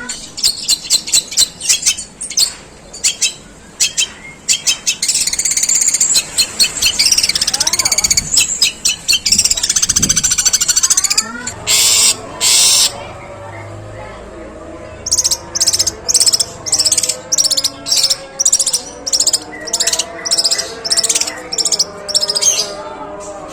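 Long-tailed shrike (pentet) singing long, harsh runs of tree-sparrow-like chirps. A rapid stream of chirps gives way, about twelve seconds in, to two long harsh calls, then to a steady series of short harsh notes at two or three a second.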